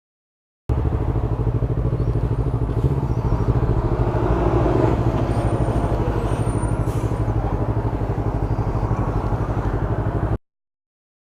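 Motorcycle engine running at a steady, unchanging note with a fast even pulse. It starts abruptly about a second in and cuts off abruptly near the end.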